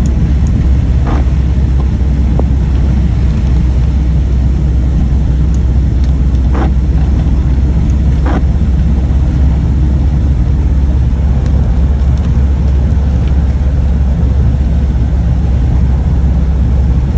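Car engine and road noise heard while driving: a loud, steady low rumble with a few faint ticks.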